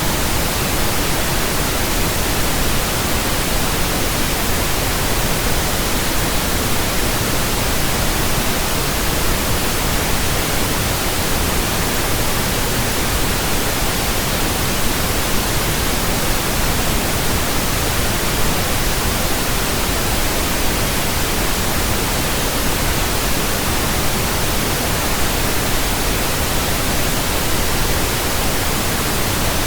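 Steady, loud pink noise from an electronic pink noise generator: an even hiss spread across all pitches, unchanging, of the kind played to burn in new speakers and earphones.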